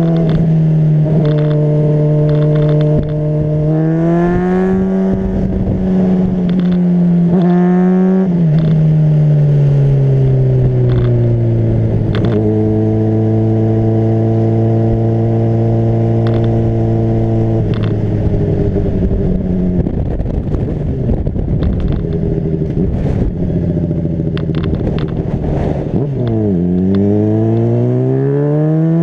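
Honda CBR600RR's inline-four engine running under way, with wind rushing past. The engine note holds steady, climbs, then drops sharply about eight seconds in and settles lower, as with throttle and gear changes. The note fades into the wind noise for a while and climbs again near the end.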